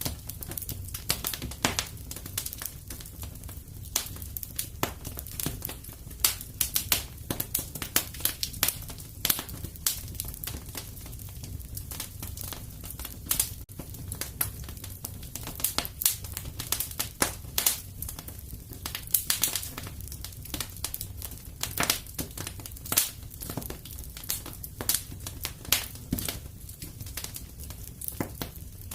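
Fire in a fireplace crackling, with irregular sharp snaps and pops over a steady low rumble.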